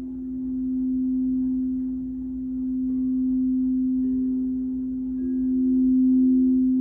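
Crystal singing bowls sounding a steady low tone that swells and eases slowly in volume, with a second, higher bowl tone joining about four seconds in.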